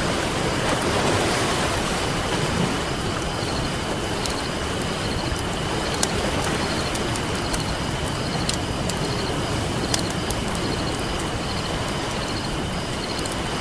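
Ocean waves washing steadily on a beach, with a campfire crackling over them in sharp scattered pops. A faint steady high tone runs throughout.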